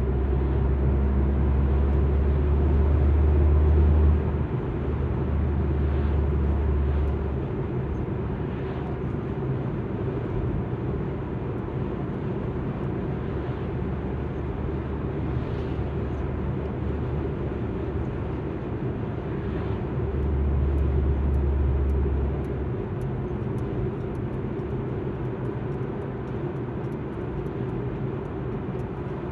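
Alfa Romeo MiTo driving, heard from inside the cabin: steady road and engine noise with a deep low drone that swells for the first several seconds and again about two-thirds of the way through.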